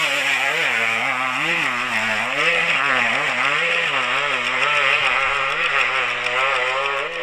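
Dirt bike engine running hard, its revs rising and falling every half second or so as the throttle is worked.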